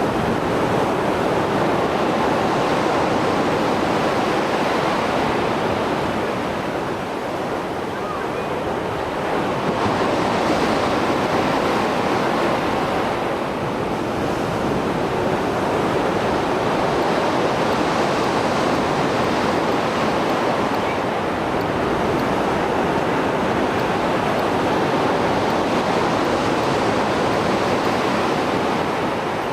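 Mediterranean sea waves after a storm: continuous surf breaking and washing on the shore, swelling and easing every few seconds.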